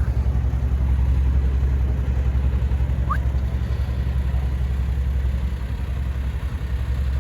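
Truck engine idling, a steady low rumble, with one short rising chirp about three seconds in.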